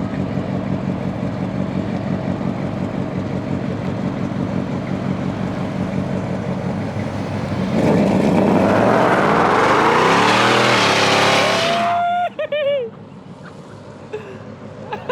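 A car engine idling steadily. About eight seconds in, it gives way to a loud acceleration, the engine pitch rising for about four seconds before cutting off sharply. A few brief falling high tones follow.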